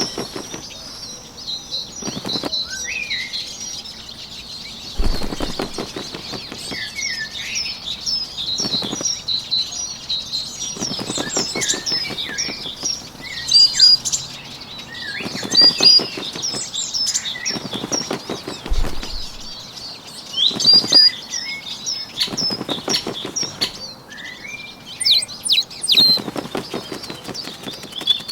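Bird sound effects: many short chirps and trills, with bursts of wing-flapping flutter every couple of seconds.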